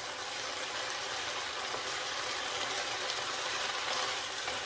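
Vegetables stir-frying in a hot pan, a steady sizzling hiss, with faint clicks of a wooden spatula stirring them against the pan.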